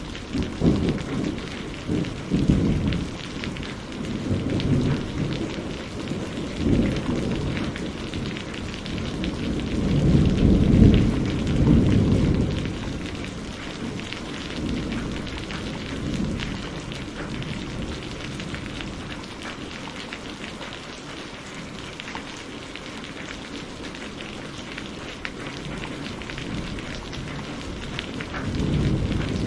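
Steady rain with rolling thunder. The rumble swells to its loudest about ten seconds in, dies away to a lull of rain alone, and starts building again near the end.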